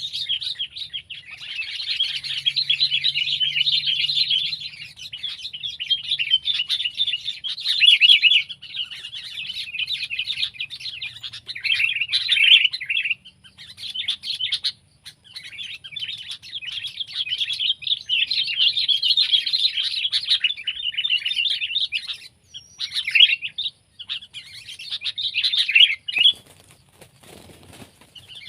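Sooty-headed bulbul (kutilang) calling in long runs of rapid, chattering chirps, broken by a few short pauses.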